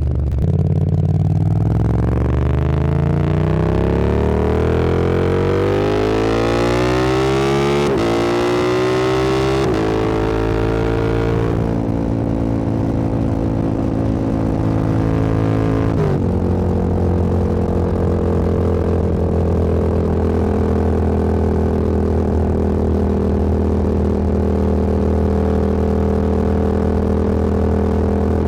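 Motorcycle engine accelerating hard, rising in pitch for several seconds and changing gear about eight, ten and sixteen seconds in, then settling into a steady cruise.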